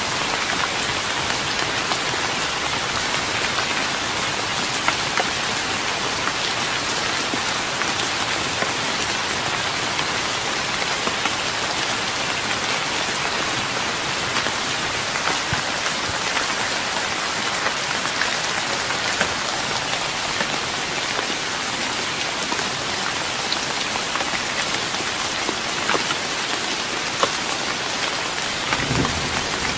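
Steady rain pattering on a wooden deck, with scattered sharper drop hits. A low rumble, plausibly distant thunder, starts near the end.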